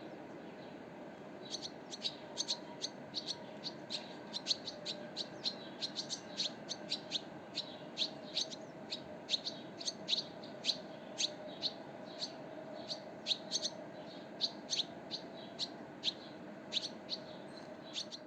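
Small birds chirping: a rapid run of short, sharp high chirps, about two or three a second, beginning about a second and a half in, over a steady background hum.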